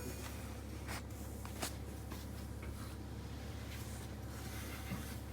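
Cat pawing and scratching at a cardboard box to get at the treats inside: faint scratching and rustling with a few light taps.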